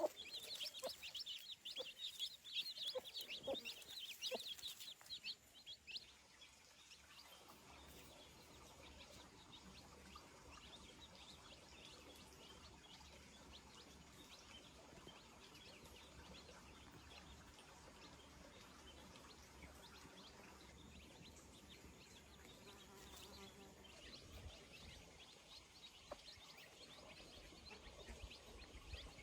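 Chickens calling, with rapid high cheeping for about the first six seconds, then near silence with faint scattered chirps.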